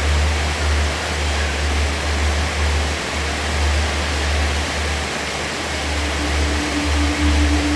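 Steady heavy rainfall, an even hiss over a fluctuating low rumble. A steady low hum-like tone comes in about six seconds in.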